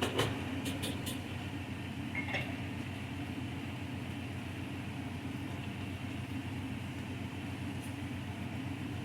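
Steady low mechanical hum, like an appliance motor running, with a few light clicks right at the start and a brief high tone about two seconds in.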